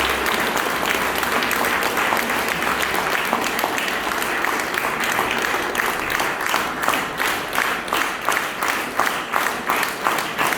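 Audience applauding after a choir performance; about halfway through, the scattered clapping falls into rhythmic clapping in unison, about two to three claps a second.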